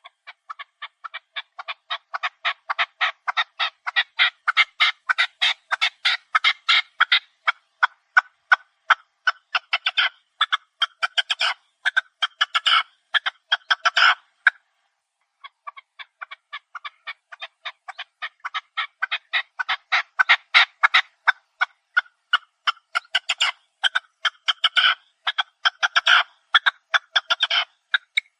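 Chukar partridge calling: a fast run of short, sharp notes, about five a second, growing louder over the first few seconds. The run breaks off for about a second halfway through, then a second run starts.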